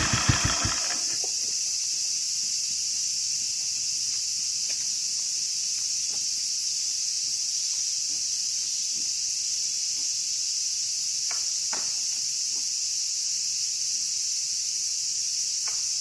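Kawasaki 250 Meguro SG single-cylinder engine idling in even beats, cut off under a second in as it is switched off. What remains is a steady, high-pitched chorus of summer insects, with a few faint clicks.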